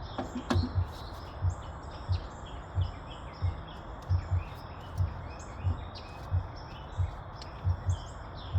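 Small birds chirping and twittering over a steady background hiss. A dull low thud repeats about every two-thirds of a second and is the loudest sound.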